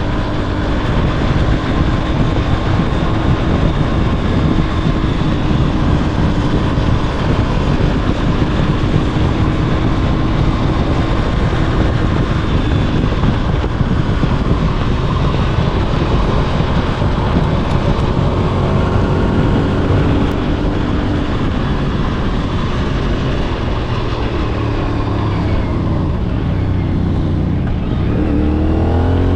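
CFMOTO 450SS parallel-twin engine running at a steady speed on the road, heard from a camera on the bike with heavy wind rush over the microphone. Near the end the engine note drops and climbs again as the bike changes speed.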